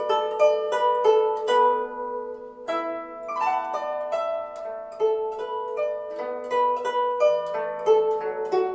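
Guzheng (Chinese zither) playing a melody: quick plucked notes ringing and dying away over longer-held low notes, with a brief lull about two seconds in before the plucking picks up again.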